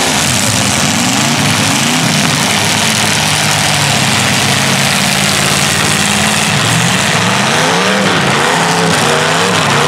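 Demolition derby cars' engines running hard and revving, their pitch rising and falling over a dense, loud wash of engine noise.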